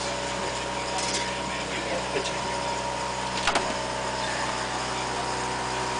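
A steady mechanical hum, with two short sharp clicks about a second and three and a half seconds in.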